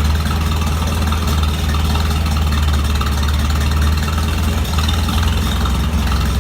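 Gasoline tractor engine idling steadily just after a cold start.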